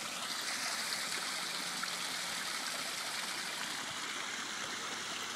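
Water falling steadily down a small man-made garden waterfall, a constant splashing hiss.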